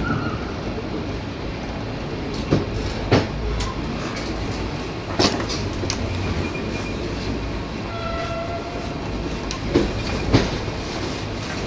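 Passenger train coach running along the track with a steady low rumble. Its wheels knock over rail joints in pairs of clicks about half a second apart, twice, with a single knock in between.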